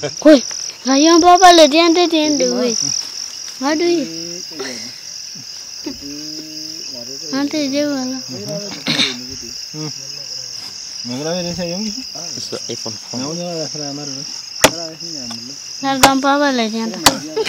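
Crickets chirring steadily, a continuous high-pitched trill, with people's voices coming and going over it, louder than the insects. A few sharp clicks sound near the end.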